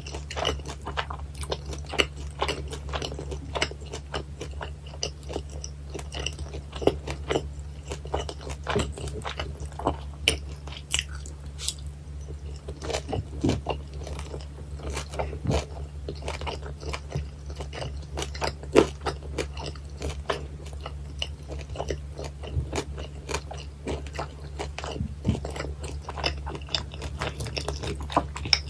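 Close-miked chewing and crunching of crispy, chewy battered fried pork (guobaorou), with many sharp crackles and bites running on continuously.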